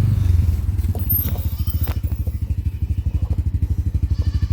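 Side-by-side utility vehicle's engine idling with a steady pulsing beat, with a few light clicks and clatters about one to two seconds in.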